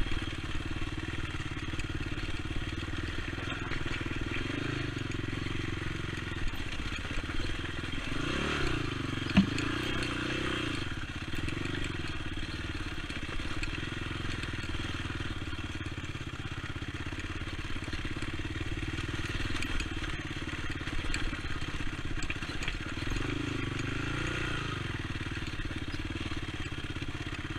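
Honda TRX450 ATV engine running while riding a trail, the revs swelling and dropping a few times, with a single sharp knock about nine seconds in.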